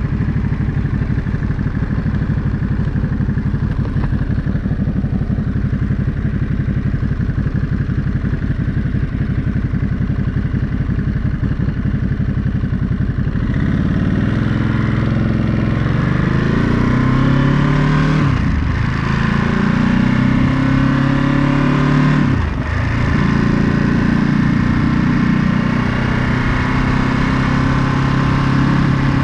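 Ducati Monster 937's L-twin engine ticking over steadily, then pulling away about halfway through. Its pitch rises twice with a brief dip at each upshift, then it settles into a steady cruise.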